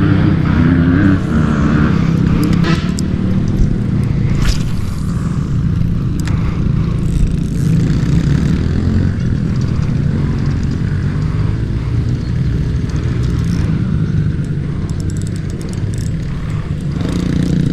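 Dirt bike engines running steadily, with a few brief scrapes and knocks over the top.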